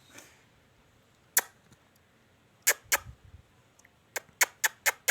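Parrot making sharp clicks: a single one, another about a second later, then a quick run of about four a second near the end.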